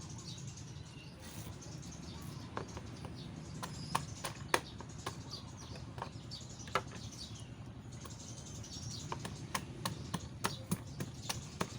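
Outdoor background with a steady low rumble and faint bird chirps, broken by scattered sharp clicks and snaps that come more often near the end.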